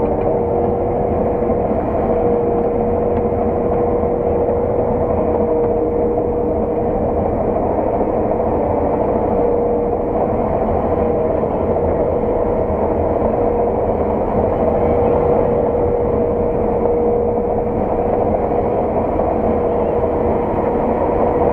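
Claas 600 TT combine harvester running steadily while harvesting oilseed rape, heard from inside the cab: a constant engine and machinery hum with a steady whine.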